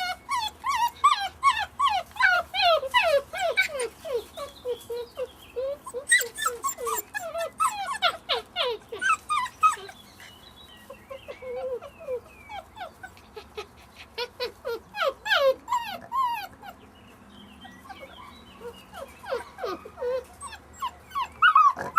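A litter of month-old puppies whimpering and squealing in many short cries, each one falling in pitch, often overlapping. The cries thin out through the middle and crowd back in near the end.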